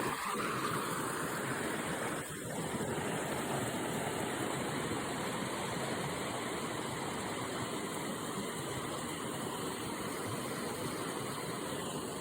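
River water flowing over rocks: a steady rushing.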